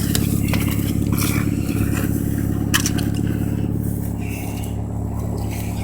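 An engine running steadily in a low drone, with scuffling, scraping and a few sharp knocks over it from men grappling in a fight.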